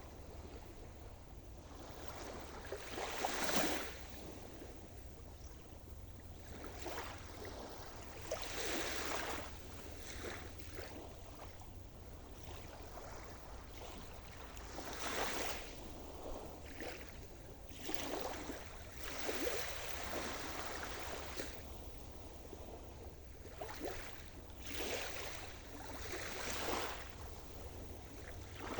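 Sea surf: waves breaking and washing up in swells of hiss that rise and fade every few seconds, over a steady low rumble.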